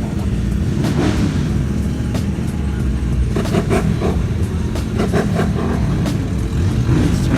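Car engines running as vehicles drive out past, a steady low rumble.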